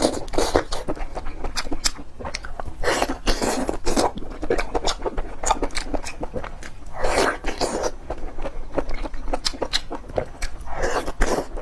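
Close-miked eating sounds: wet chewing and mouth clicks throughout, with three louder rushing bursts about a second long, about three seconds in, about seven seconds in and near the end.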